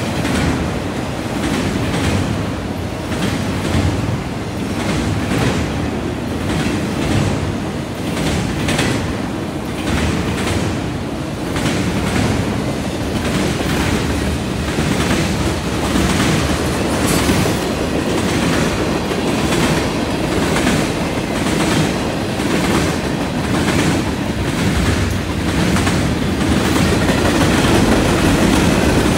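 Freight cars (autoracks, tank cars and covered hoppers) of a CN mixed freight rolling past close by, with a steady rumble of steel wheels on rail and repeated clicking and clacking as the wheels cross the rail joints and the junction switch.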